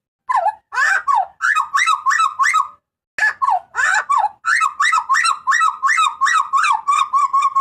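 A butcherbird (burung jagal papua) giving loud, harsh calls in quick succession. The notes come several a second, with a short break about halfway through, then a faster run of calls.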